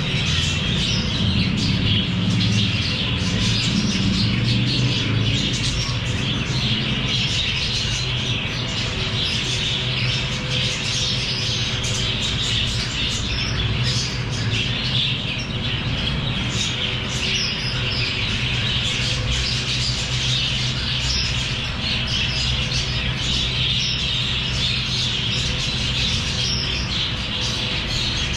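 A flock of small pet parrots chattering and squawking continuously, over a steady low hum.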